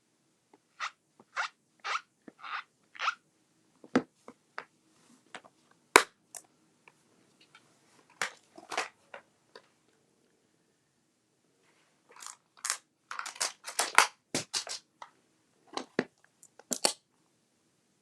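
Short rustling and scraping sounds of paper and craft supplies being handled, with a run of quick scrapes at the start, two sharper knocks, and a busy cluster of crinkling near the end.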